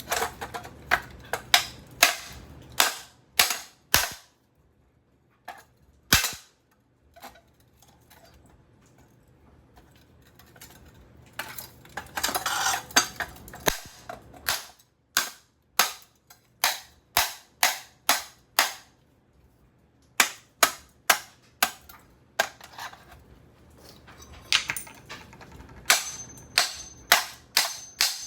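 Repeated sharp blows on the all-metal housing of a Craftmade ceiling fan motor as it is smashed, in runs of about two strikes a second with short pauses between.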